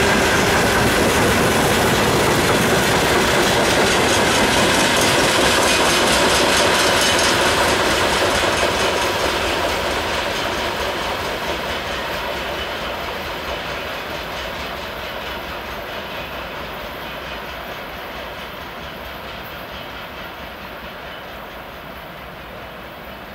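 Freight train of open wagons rolling past, with a fast clickety-clack of wheels on the rails. It is loud and steady for about the first third, then fades steadily as the last wagon goes by and the train draws away.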